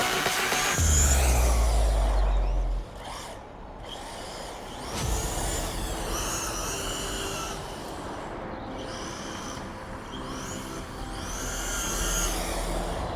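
Electric RC car driving, its motor whining up and down in pitch as it speeds up and slows, again and again.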